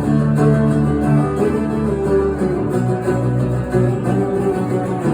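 Live acoustic band music: strummed acoustic guitar chords with bass, in an instrumental passage between vocal lines.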